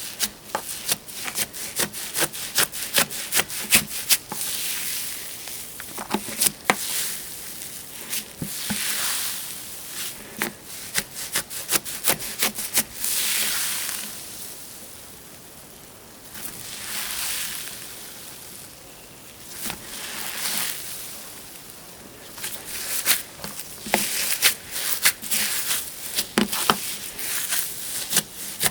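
Slime being squeezed and worked by hand: a stream of crisp clicks and pops, with a swell of crackling hiss every few seconds. The clicks thin out for several seconds around the middle and come thick again near the end.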